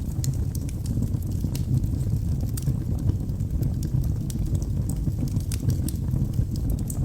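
Wood fire burning in a fireplace: a steady low rumble of flames with many small, irregular crackles and pops from the burning logs.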